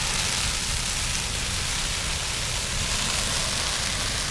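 Dried-out Christmas tree burning: a steady hiss of flames with a fluttering low rumble underneath.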